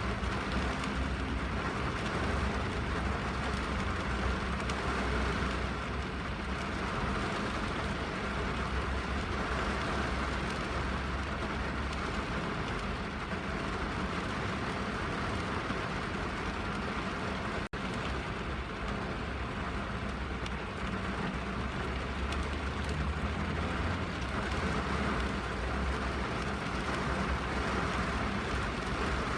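Steady rain falling on a car's roof and windows, heard from inside the cabin, with a low rumble underneath. The sound cuts out for an instant about two-thirds of the way through.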